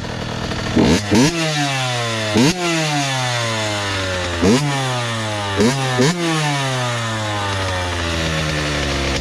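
Honda CR80's 80 cc two-stroke single-cylinder engine revved in about six sharp throttle blips, each rising quickly and then winding down slowly, before settling to a steady idle near the end. Nothing that sounds like a knock stands out; the owner hears no noise left in it and calls it having some thump.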